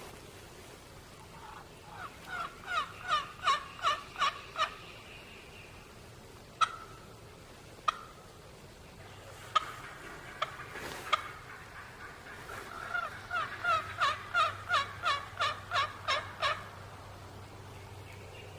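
Turkey yelping: two long runs of evenly spaced, slightly falling notes at about four a second, one early and one later. A few single sharp notes fall between them.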